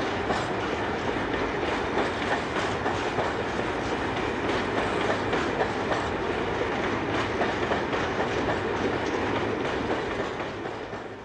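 Freight train of hopper wagons rolling past, the wheels clicking over the rail joints in a steady clickety-clack, fading away near the end.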